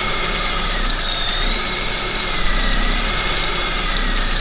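Ford C-Max engine idling with a thin, steady high whistle that wavers slightly in pitch about a second in. The whistle is false air being sucked in through a cracked crankcase breather hose to the intake manifold, a vacuum leak.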